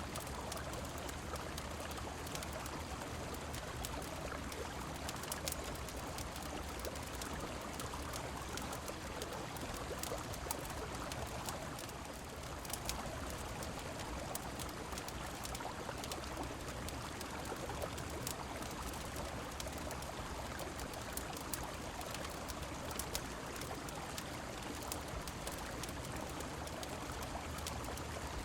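Steady rushing and splashing of a river's flowing water mixed with rain, with scattered sharp clicks throughout.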